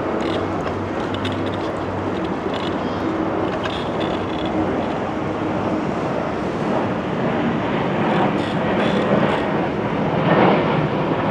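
A low-flying airliner passing overhead: a steady jet rumble that grows a little louder near the end, over the noise of street traffic.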